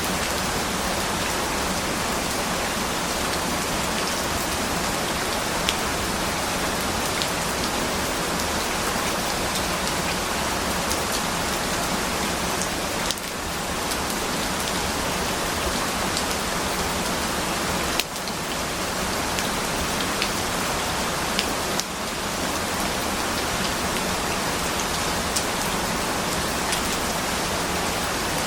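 Steady, dense rainfall with scattered drop ticks, the level dipping briefly a few times.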